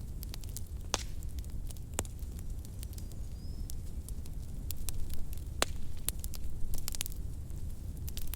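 Wood fire crackling in a fireplace: sharp pops at irregular intervals, a few louder ones with a quick cluster near the end, over a low steady rumble of the flames.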